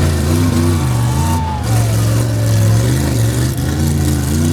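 Monster truck engine revving hard, its pitch rising and falling several times as the driver works the throttle on a car-crushing run.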